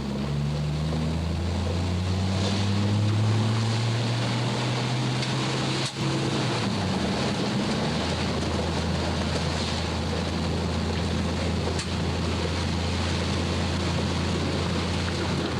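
Car driving, heard from inside: a steady engine hum with road and wind noise. The engine note climbs over the first few seconds and drops back about six to seven seconds in.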